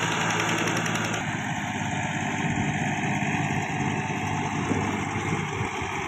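Tractor's diesel engine running, steady at first, then turning rougher and uneven about a second in.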